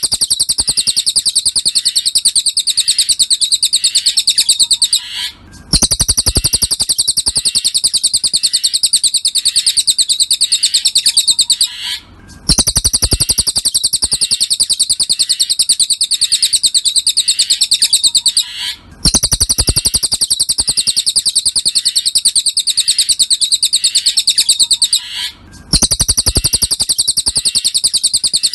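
Cililin song: a fast, high-pitched chattering trill of rapidly repeated notes, in phrases of about six seconds separated by brief pauses at even spacing. It is the kind of repeated recording used as masteran, a tutor song for training kept songbirds.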